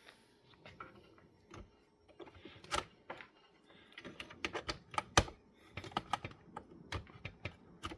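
Irregular light clicks and plastic knocks from handling an upright vacuum's power cord and plug while getting it ready to plug in, coming thicker in the second half.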